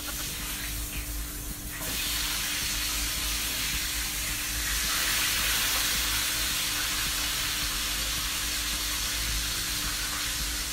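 Lobster frying in hot oil in a pan on a gas burner, a steady sizzle that turns suddenly louder about two seconds in.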